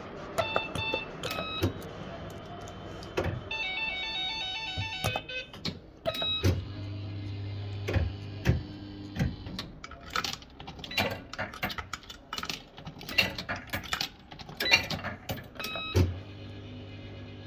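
Bell-Fruit FireCracker fruit machine in play: short electronic beeps and a brief warbling jingle a few seconds in, then a steady hum of the reels spinning, followed by a long run of sharp clicks and clunks.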